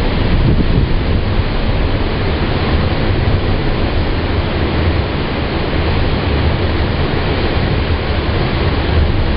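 Tropical-storm wind of about 30 to 40 mph blowing hard across the microphone, with surf mixed in: a loud, steady rush heaviest in the low end, with small gusts throughout.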